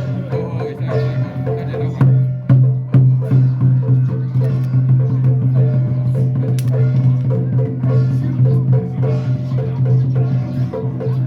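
Temple ritual percussion music: a wood block knocking a steady beat about three times a second over drums and a sustained low tone, with a few louder strikes about two to three seconds in.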